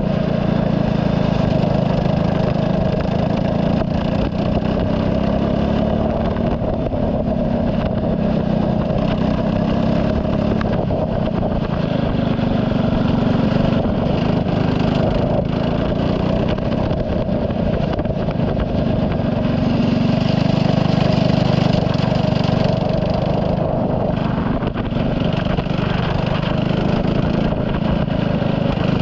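Turbocharged Saab 9-3 race car's engine running steadily under load at speed, its pitch shifting a little with throttle. It gets louder and brighter about two-thirds of the way through.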